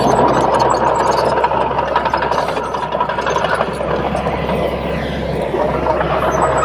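Bulldozer's diesel engine running steadily with a dense mechanical rumble, and a faint high whine over it.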